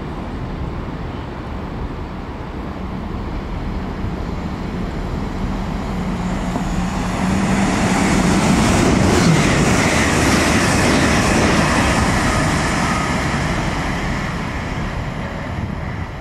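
GWR Hitachi Intercity Express Train running past along the platform. Its sound builds over several seconds, is loudest about nine seconds in as it passes with a wide rushing noise, then fades away.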